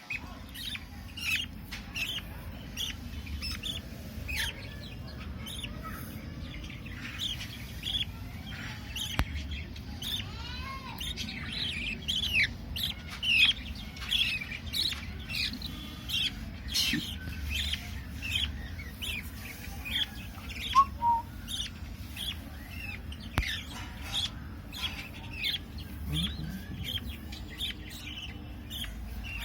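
Young budgerigars chirping: many short, high calls, often overlapping, busiest around the middle, over a steady low hum.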